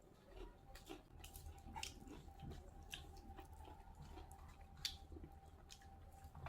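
Near silence with scattered faint small clicks and soft handling noises, one a little louder about five seconds in, over a faint steady hum.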